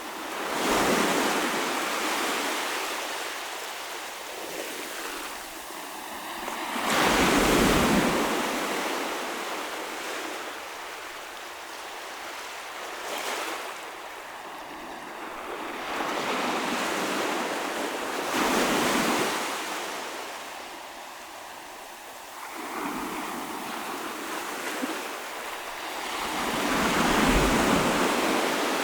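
Ocean waves breaking on the shore, one after another: a surge about every five to six seconds, each swelling and washing back down, the loudest near the end.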